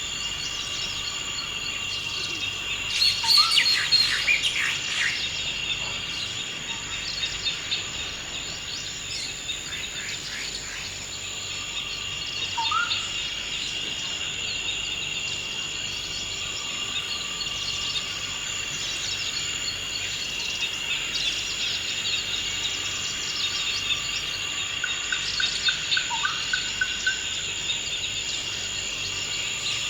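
Forest ambience: a steady, high insect drone with birds calling over it. A loud burst of chattering calls comes about three seconds in, short upward-sweeping calls come now and then, and a brief rapid trill comes near the end.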